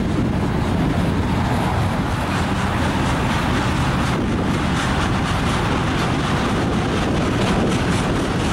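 Freight train of autorack cars rolling past: a steady noise of steel wheels on the rails, with wind buffeting the microphone.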